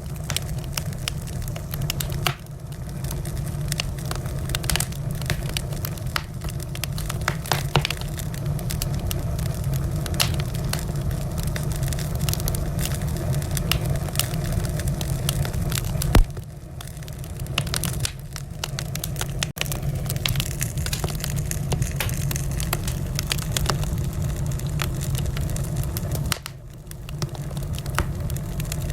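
Wood fire burning in a fireplace, crackling and popping in constant small snaps over a steady low rumble. A single loud crack comes about sixteen seconds in.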